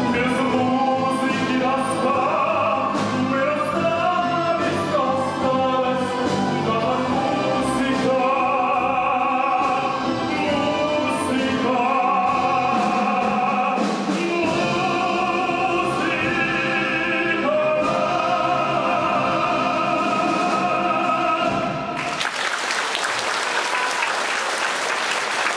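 Live orchestra playing with singing voices, the piece ending about 22 seconds in. Audience applause follows to the end.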